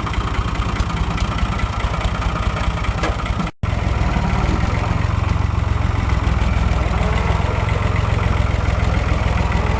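A vehicle engine running steadily with a low, pulsing rumble. The sound drops out for a moment about three and a half seconds in, then carries on a little louder.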